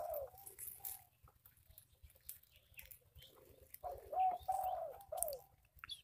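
Bird calls: a short phrase of rising-and-falling cooing notes right at the start, and another phrase of several coos about four seconds in.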